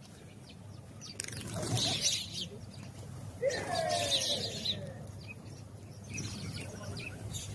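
House sparrows chirping in short repeated notes, with two louder rushing bursts of noise about one and three and a half seconds in.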